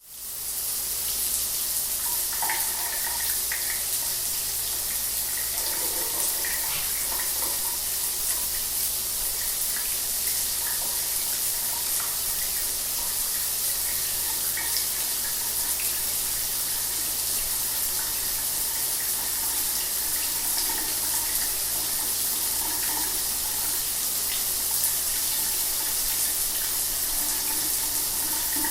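Shower water running steadily, an even hiss strongest in the high range, fading in over the first second.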